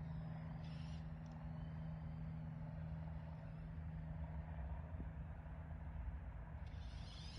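Battery-powered children's ride-on toy running with a steady low electric-motor hum, faint under background hiss.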